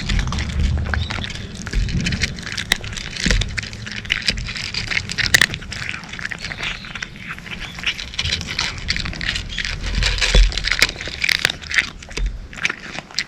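Cats chewing dry kibble, a quick, irregular run of crisp crunches.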